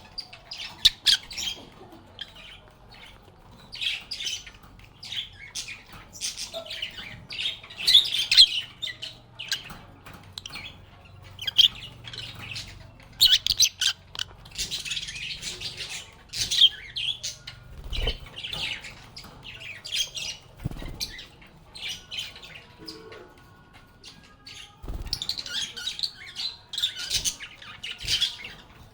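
Pet lovebirds chattering: shrill chirps and squawks in quick clusters, one after another, with a few soft low thuds among them.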